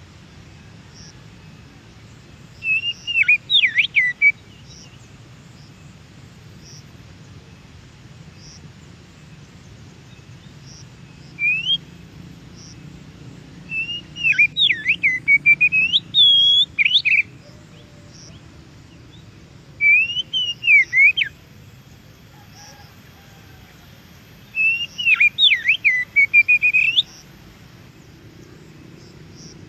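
Oriental magpie-robin (kacer) singing: about five bursts of quick, varied whistled phrases gliding up and down in pitch, separated by pauses of several seconds. A faint, steady low hum runs underneath.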